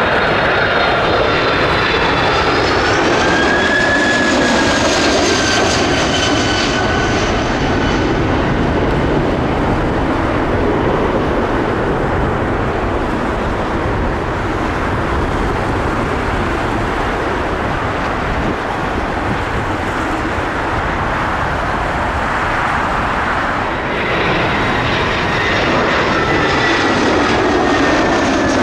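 Jet airliner's turbofan engines, a loud steady rumble with a whine that falls in pitch as the aircraft passes in the first few seconds; another whine sets in near the end as a second jet approaches.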